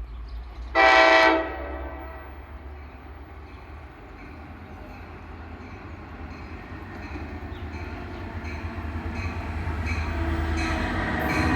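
NJ Transit train sounding one short horn blast about a second in. Then its rumble grows steadily louder as it pulls into the station, with faint wheel squeal near the end.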